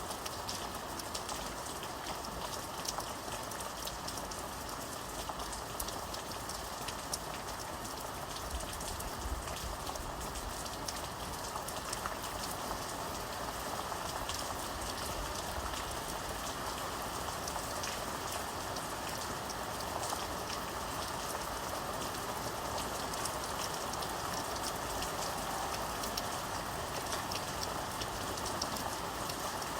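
Steady rain with many fine raindrop patters on a surface.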